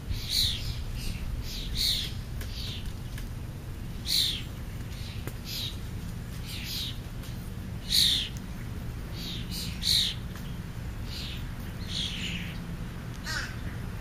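Repeated short, harsh bird calls, each falling in pitch, one every second or two, from dark birds feeding at a ground pile of food scraps, over a low steady hum.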